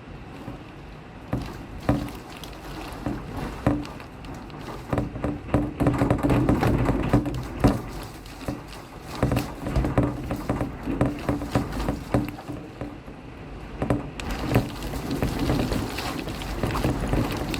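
Rain falling steadily, with many close, sharp drop impacts ticking against a nearby surface; the downpour swells and eases.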